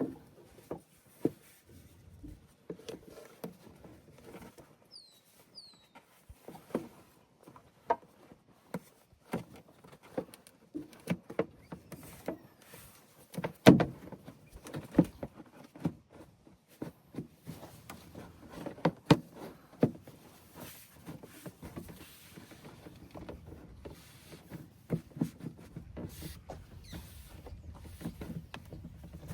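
Irregular clicks, knocks and rattles of a truck's air intake and filter housing being handled and fitted back into place, with one louder knock about halfway through.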